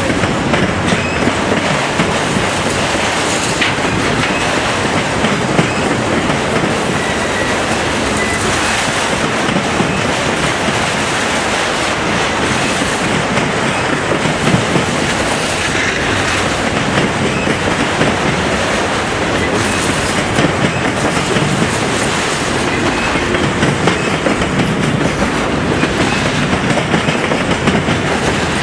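A train's cars rolling past at close range, their wheels clicking over the rail joints in a steady, loud rumble.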